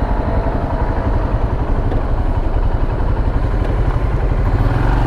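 Royal Enfield Himalayan's single-cylinder engine running steadily at low revs.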